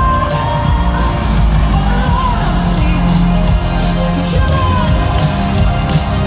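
Loud live concert music with a heavy bass, heard through an amateur recording, with voices of a crowd yelling and singing along.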